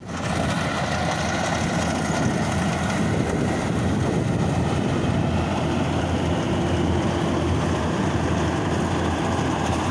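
A steady engine running, a continuous low rumble without pauses.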